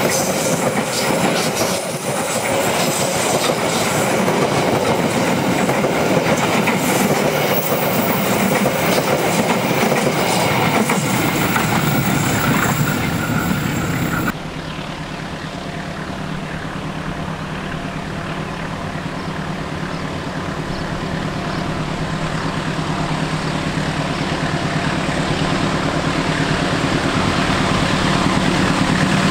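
A passing train, its wheels clattering rhythmically over the rail joints amid loud rumbling, cuts off abruptly about halfway through. A steady low engine drone follows and slowly grows louder, as a locomotive approaches.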